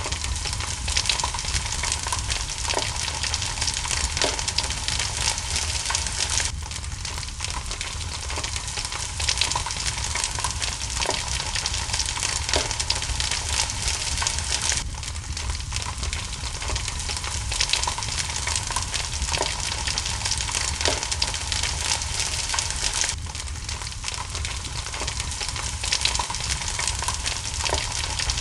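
Steady hiss of rain mixed with a wood fire crackling, with scattered small pops. The hiss shifts abruptly every eight seconds or so.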